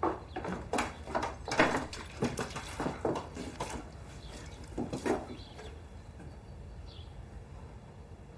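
A quick run of sharp knocks and clatters for about five seconds, then only a low steady background.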